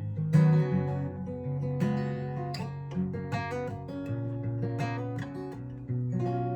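Acoustic guitar strumming chords in a steady rhythm, an instrumental passage with no voice.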